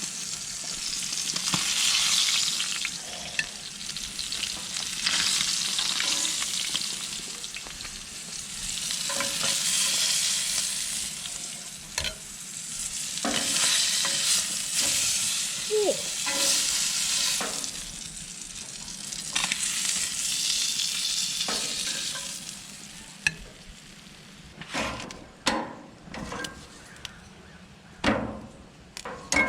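Pieces of seasoned dorado sizzling in hot ghee in a cast iron skillet, the frying hiss swelling and easing in waves. Near the end the sizzle drops lower and a few sharp clicks and taps come through.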